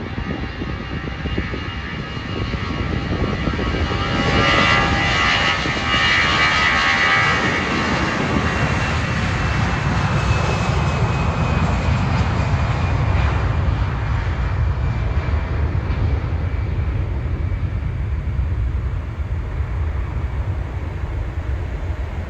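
Airbus A320's CFM56-5B turbofan engines at takeoff power: a high whine of several steady tones over a roar, loudest about four to eight seconds in, then giving way to a deep rumble that continues to the end.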